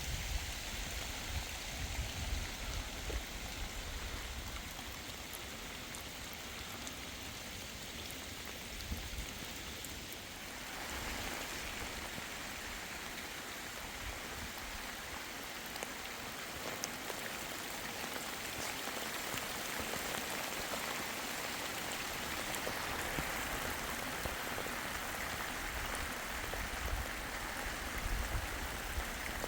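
Steady rain falling, growing heavier about ten seconds in, with uneven low rumbles underneath.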